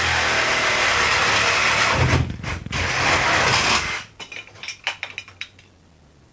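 Electric power saw cutting into an old refrigerator's cabinet, with a short break about two seconds in. It stops about four seconds in, followed by a scatter of short knocks and rattles.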